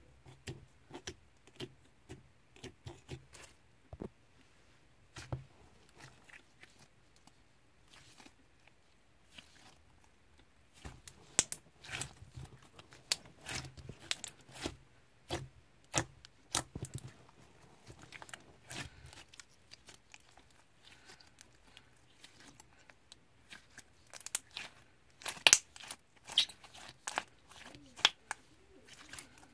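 Slime being handled: irregular sharp clicks, pops and crinkly crackles, busiest and loudest in two stretches, a little before the middle and again near the end.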